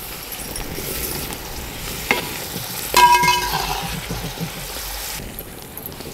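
Chopped onions, green chillies and spring-onion greens sizzling in hot oil in a large aluminium pot, stirred with a metal ladle. The ladle clinks against the pot twice, about two and three seconds in, the second clink the loudest and ringing briefly.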